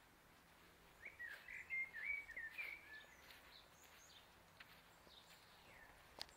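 Faint birdsong: a short warbling phrase of quick wavering notes lasting about two seconds, starting about a second in, with a single faint click near the end.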